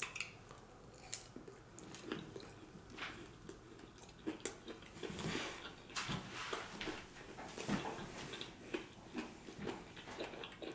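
Close-miked chewing of a mouthful of grilled chicken-and-vegetable kebab: irregular wet mouth smacks and small clicks.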